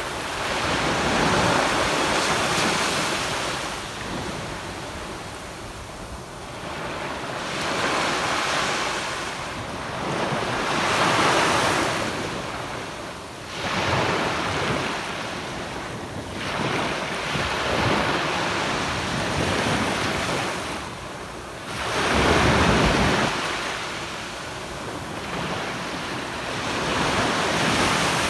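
Sea waves washing onto a sandy beach, surging and ebbing every few seconds, one wave breaking louder about three-quarters of the way through.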